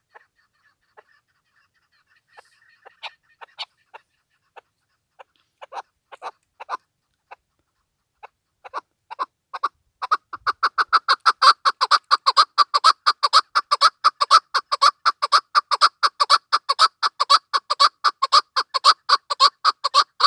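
Chukar partridge calling: scattered single notes at first, building about ten seconds in into a fast, even run of loud repeated notes, about four or five a second.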